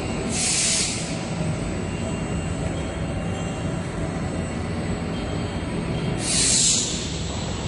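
Fiber laser tube cutting machine running: a steady machine hum and noise, with two short bursts of hissing, one about half a second in and one near the end.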